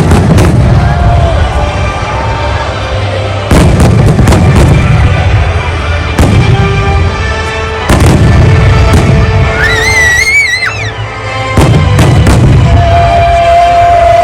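Large aerial fireworks shells bursting in a string of loud booms with deep rumbling, over background music. A wavering whistle sounds about ten seconds in.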